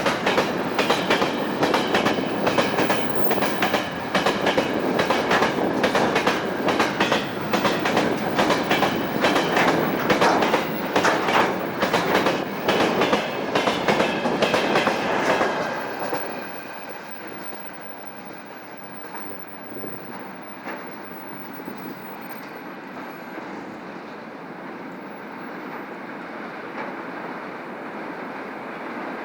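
Freight train wagons rolling past at speed, their wheels clacking over the rail joints in quick repeated clicks. About sixteen seconds in, the end of the train goes by and the noise drops suddenly to a quieter, fading rumble.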